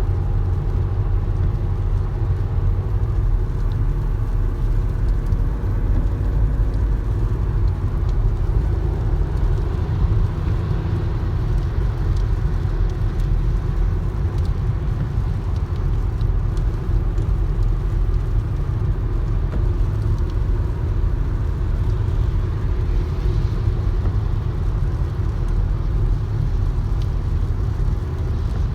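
A steady low rumble that keeps up without a break.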